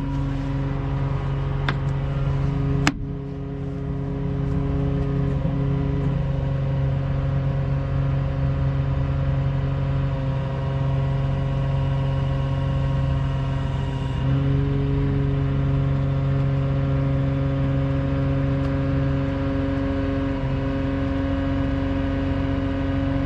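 Engine of the lifting equipment running steadily while the raised machine is lowered back onto blocks, with one sharp knock about three seconds in.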